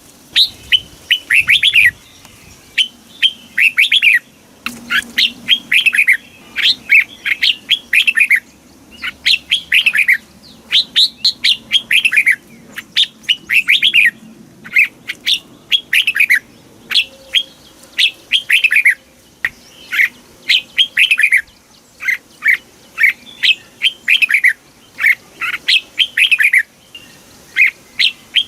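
Red-whiskered bulbul singing: short, clear phrases of quick downward-slurred whistled notes, repeated about once a second with brief pauses between them.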